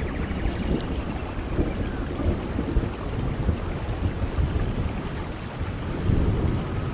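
Steady rain falling with a low rumble of thunder underneath, swelling briefly about six seconds in.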